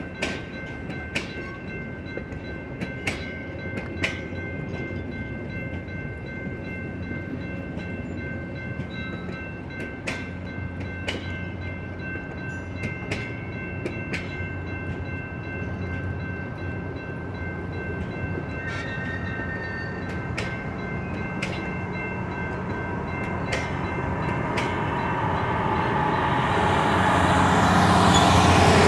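Bilevel passenger coaches rolling slowly past, their wheels clicking irregularly over the rail joints, with a steady high tone running through. Over the last few seconds a diesel locomotive's engine grows steadily louder as it draws near.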